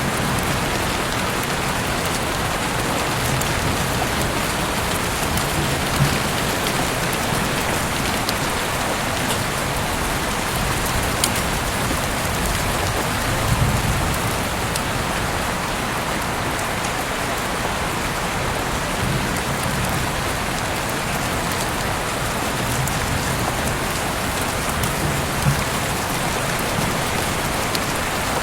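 Heavy rain falling steadily outside an open window, a dense even hiss with scattered individual drops ticking through it.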